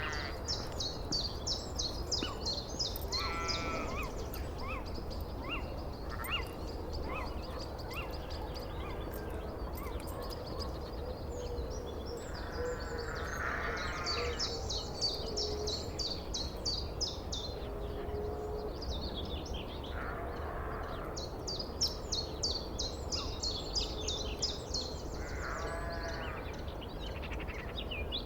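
Sheep bleating now and then, about five calls each lasting roughly a second. Between them a small bird sings in quick runs of high repeated notes, over a steady low background rumble.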